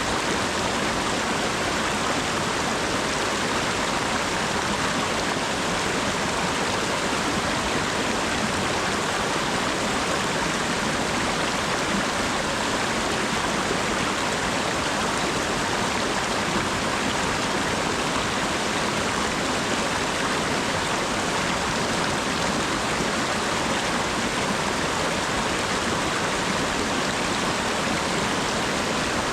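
Steady rain falling: an even, unbroken wash of noise.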